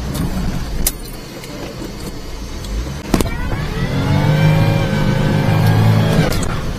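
Supercharged three-cylinder engine of a kei mini truck revving up, holding high for about three seconds and easing off, under load in deep snow. A sharp knock about three seconds in, before the rev.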